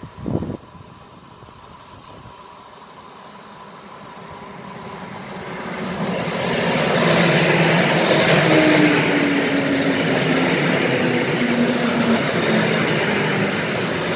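Electric multiple unit approaching and passing close by: a rumble and wheel-on-rail noise that builds over several seconds, with a hum that falls slightly in pitch as the train goes by.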